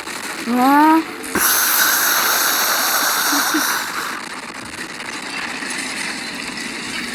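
A short rising voice-like call, then a loud hiss that lasts about two and a half seconds and drops to a softer, steady hiss.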